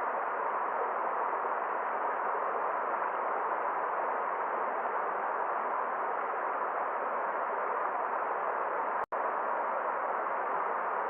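Forest stream water flowing in a steady, even rush. The sound cuts out for an instant about nine seconds in, then carries on unchanged.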